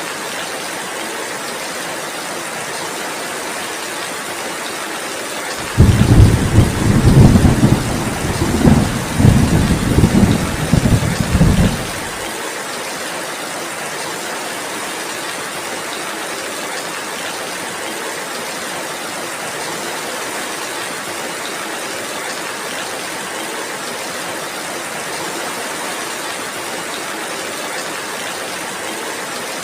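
Steady heavy rain, with a loud low roll of thunder that comes in suddenly about six seconds in, rumbles for about six seconds and cuts off.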